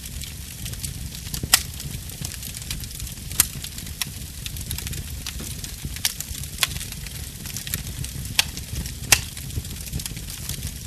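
Wood fire crackling: sharp pops and snaps come irregularly, about one a second, with a few louder ones, the loudest near the end, over a steady low rumble and hiss.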